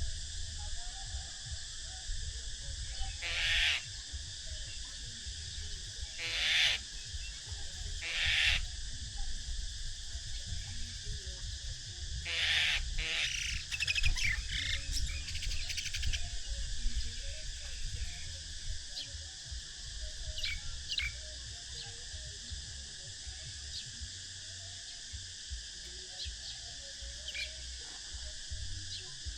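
Baby birds in a nest giving begging chirps in short loud bursts, four of them in the first half and then fainter scattered chirps, over a steady high-pitched hum.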